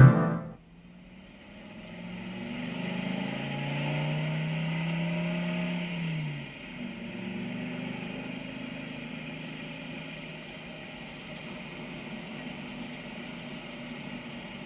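Car engine running with road noise. The engine note holds and grows louder for a few seconds, then drops off about six seconds in, as when the car eases off or changes gear, and it carries on running more quietly after that.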